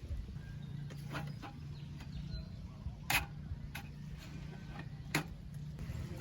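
A handful of sharp clicks or knocks, the loudest about three seconds in, over a low steady hum.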